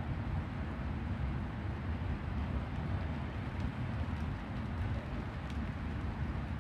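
Steady rain with a low rumble underneath and a few faint ticks from drops partway through.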